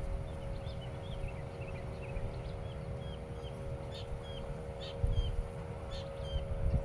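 Small birds chirping, a stream of short high chirps repeating every half second or so, over a low steady hum and a low rumble that bumps up twice.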